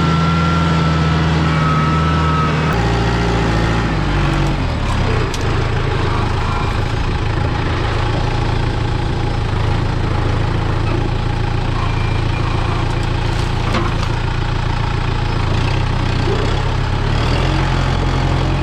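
Mini excavator engine running steadily, its note shifting a couple of times in the first few seconds as the load changes, with a thin high whine early on.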